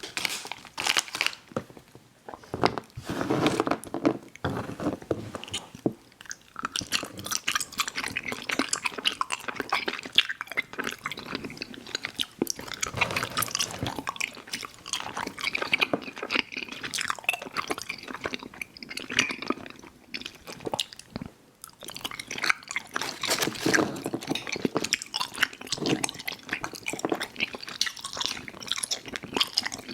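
Close-up chewing and mouth smacking of chewy fruit candy (Airheads Bites and Tootsie fruit chews), with wet sticky clicks that go on throughout.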